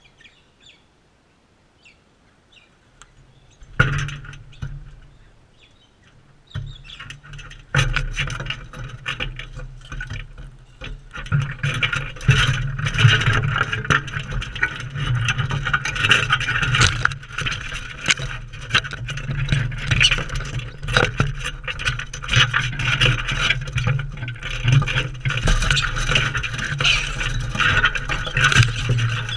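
Dense, close scraping and clicking from birds feeding at a seed feeder, starting after a few quiet seconds with a single thump near the start and building to a busy run that continues.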